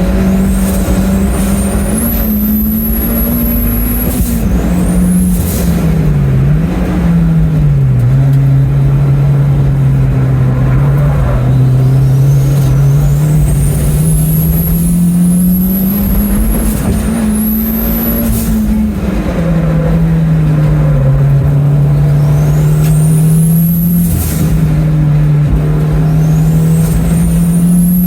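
Toyota MR2 race car's big-turbo 3S-GTE four-cylinder engine pulling hard on a fast lap, its note rising and falling with each gear and throttle change. A high turbo whistle climbs several times under boost and breaks off, with short bursts of hiss as the throttle closes.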